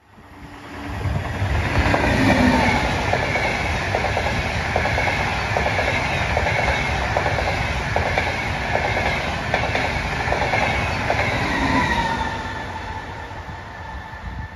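A train passing at speed, its wheels clacking rhythmically over the rail joints. The sound swells within the first second, and near the end a whine drops in pitch as the train goes by and fades.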